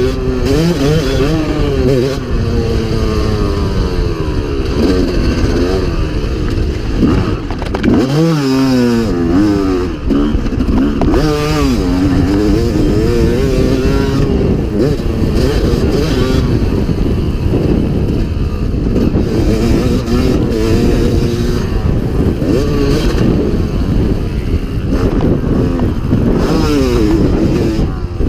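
Motocross dirt bike engine running hard, its pitch repeatedly rising and falling as the throttle is opened and shut. About eight seconds in it drops off briefly, then climbs again sharply.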